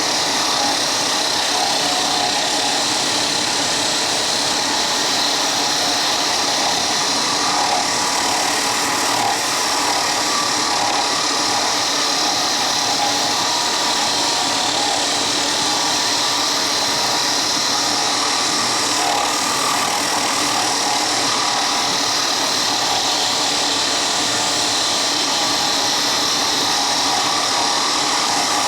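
Power tool running steadily as it works a piece of padauk wood.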